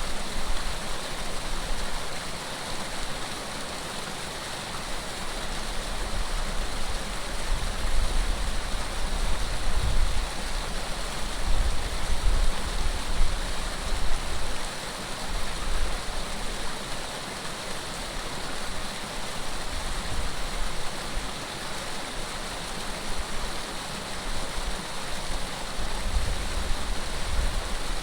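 Steady rush of running water, like a stream or small fall. Low gusts of wind rumble on the microphone now and then.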